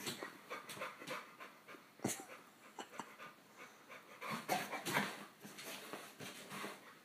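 American bully dog panting in quick, short breaths, with a sharp click about two seconds in and louder breaths around five seconds in.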